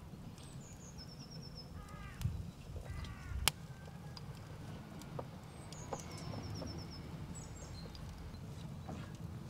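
Birds calling, among them a short high descending trill heard twice, over a low steady rumble. A few sharp pops from the wood fire burning in an open steel oven, the loudest about three and a half seconds in.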